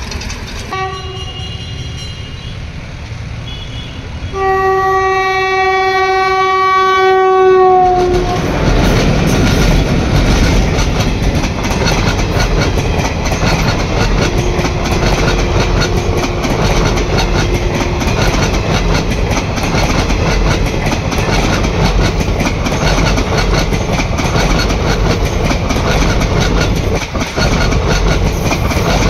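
Train horn sounding a short blast, then a long blast of about four seconds whose pitch drops at the end as the locomotive passes close by. The coaches then rush past with loud, steady wheel-on-rail noise and clickety-clack over the rail joints.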